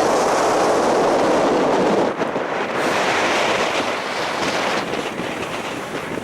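Strong wind buffeting the camera's microphone: a loud, dense rush that eases about two seconds in and turns gustier and more uneven.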